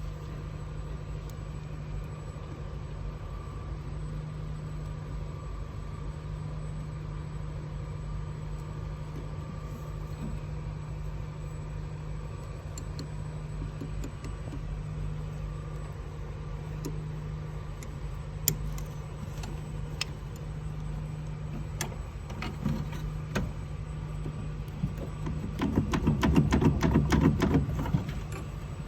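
A steady low mechanical hum, with scattered sharp clicks and knocks later on and a louder burst of rapid clattering near the end.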